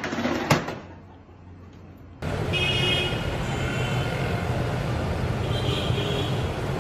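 Steady road and traffic noise of a car driving, starting abruptly about two seconds in after a quieter stretch that holds a single knock.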